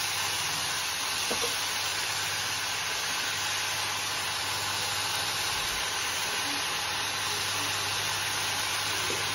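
Keerai greens with onion and dal frying in a kadai, a steady sizzle as they are stirred, with a faint low hum underneath.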